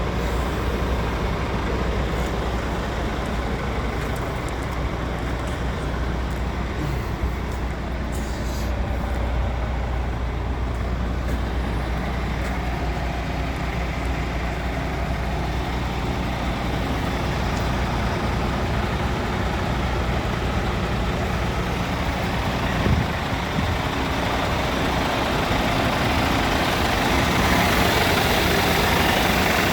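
Diesel engine of a 2014 Scania P410 dump truck, an inline-six, running steadily with a low, even drone that grows somewhat louder near the end.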